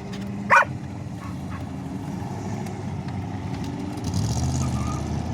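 Engines of a procession of old cars running as they drive slowly past, a steady low hum; a louder, deeper engine comes in about four seconds in.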